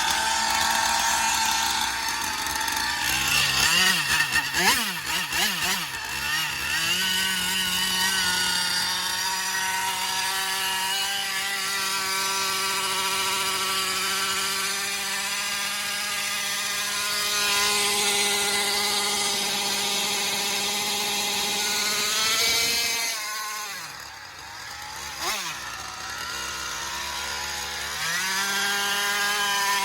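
Goped Sport's twin Zenoah two-stroke engines revving during a burnout. The pitch wavers up and down in the first few seconds, then holds high and steady for a long stretch. About three quarters through the revs drop sharply, blip once and climb back up near the end.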